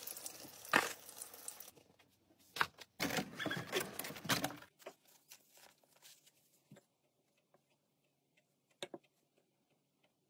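Fried pirozhki sizzling in hot oil in a frying pan as a fork turns them, then a soft crackly tearing as the crisp crust of a fried pie is pulled apart by hand, followed by a few faint taps.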